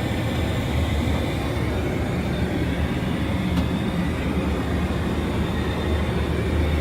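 Steady cabin noise inside a Boeing 737-700 airliner in flight: an even low rumble and rushing air from the engines and airflow, with no change in level.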